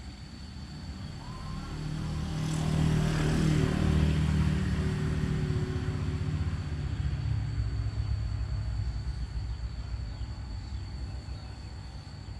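A motor vehicle passing: an engine drone builds over the first couple of seconds, is loudest around three to five seconds in, then slowly fades away.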